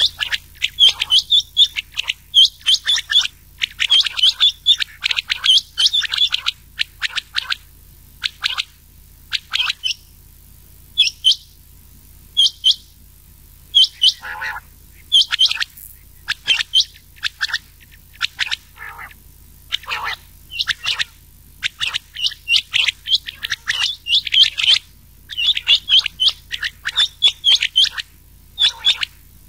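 Rain quail and quail calls mixed into a lure track for quail hunting: quick runs of short, sharp, high call notes, repeated in clusters with brief pauses between them, over a faint low hum.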